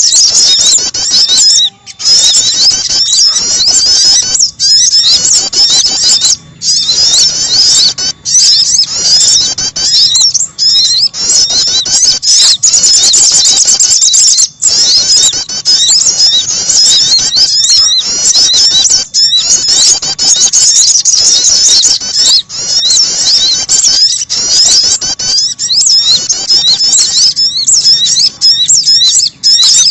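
Recorded lure calls of small songbirds, sogon and prenjak (prinia): dense, rapid, high-pitched chirping and trilling that runs on with only brief breaks.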